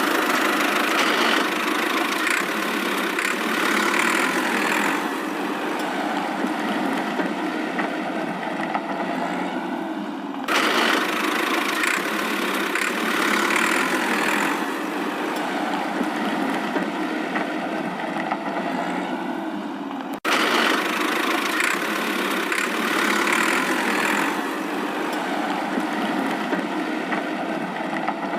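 An engine running steadily, heard as the same roughly ten-second stretch looped over and over with abrupt joins about ten and twenty seconds in.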